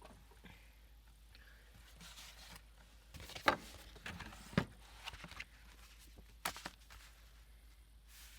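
Paper and craft supplies being handled on a desk: soft rustling with a few sharp clicks and taps, the loudest about three and a half and four and a half seconds in.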